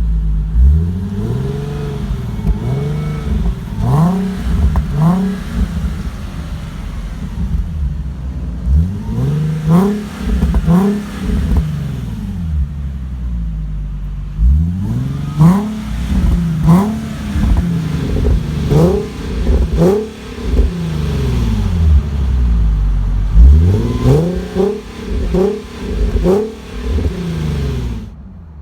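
Nissan 370Z's 3.7-litre V6 through a Kinney's Street Demon true-dual performance exhaust, idling and revved in repeated quick throttle blips that come in clusters of two to four, each a sharp rise and fall in pitch. The sound drops away near the end.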